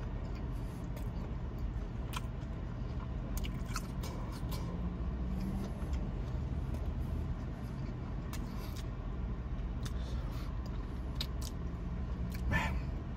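Chewing and biting into a fried chicken sandwich, scattered short wet clicks and crunches, over a steady low hum inside the car.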